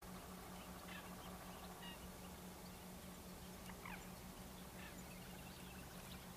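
Faint, scattered short bird calls, one falling in pitch near the middle, over a steady low hum and hiss.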